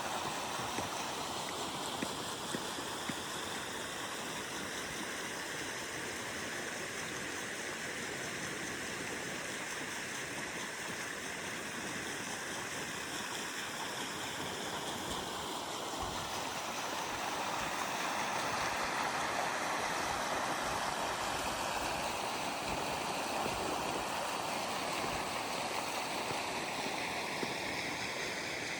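River water rushing and gurgling steadily around a bamboo raft, swelling a little past the middle.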